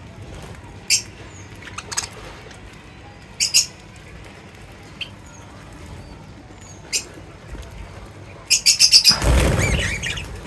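Pet birds giving short, high chirps a few seconds apart. Near the end comes a quick run of chirps, then a loud rustling burst lasting about a second.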